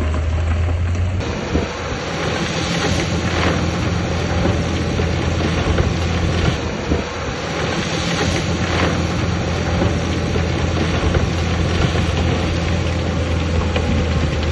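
Heavy diesel earthmoving machinery running steadily: a low engine hum under a constant rough noise, with a few faint knocks.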